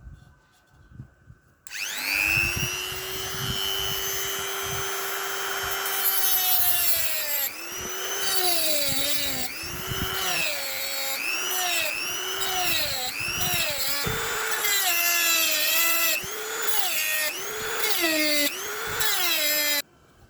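Small handheld power tool spinning up and running at a steady high pitch, then bogging down and recovering about once a second as it bites into the work, before switching off near the end.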